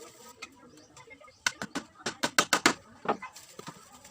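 A quick run of sharp knocks, about six a second, starting about one and a half seconds in, then a single knock shortly after.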